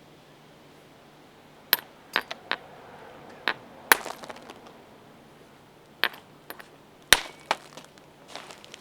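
Sharp stone-on-stone cracks: a piece of raw stone being struck against a stone anvil to knock off flakes. About ten strikes come in irregular clusters, starting about two seconds in.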